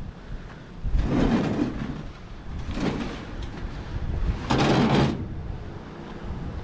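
A heavy piece of scrap being shoved into place among the load, scraping and sliding three times in short pushes.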